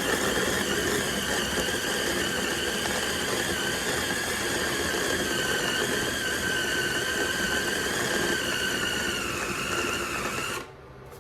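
Mini food processor running, its blade mincing cubed raw chicken breast, with a steady high motor whine. The pitch sags slightly near the end before the motor cuts off abruptly.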